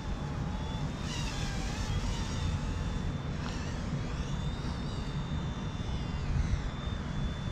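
Small electric RC helicopter, an Eachine E120, flying: a high motor-and-rotor whine that wavers and glides up and down in pitch as the throttle changes. Wind rumbles on the microphone underneath.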